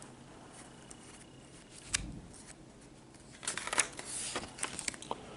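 Paper rustling with a few crisp clicks, as of a picture book's page being turned, after a single soft knock about two seconds in.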